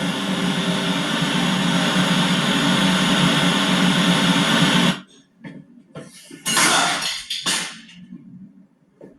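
Film sound design: a loud, steady droning noise with a hiss that cuts off suddenly about five seconds in, followed by a few short, sharp noises.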